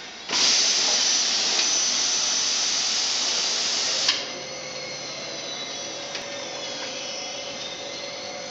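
Nonwoven-fabric rewinding machine running: a loud, high, hissing machine noise that drops abruptly with a click about four seconds in to a quieter steady running sound with a faint steady tone.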